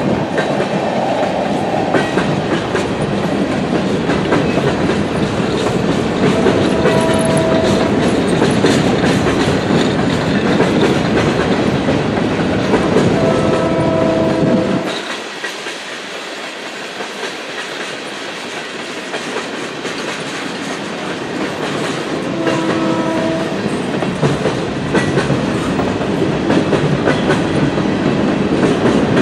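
Freight cars of a passing train, boxcars and then covered hoppers, rolling by with steady wheel and rail noise and clickety-clack; the rumble eases for several seconds about halfway through. A distant locomotive horn sounds in three short blasts, at roughly a quarter, half and three-quarters of the way through.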